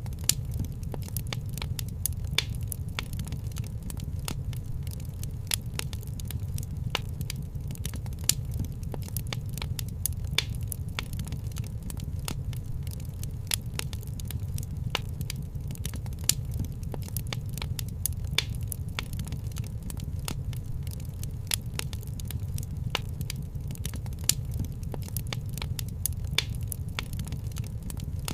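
Fire crackling in a fireplace: frequent, irregular pops and snaps, a few sharper than the rest, over a low steady rumble.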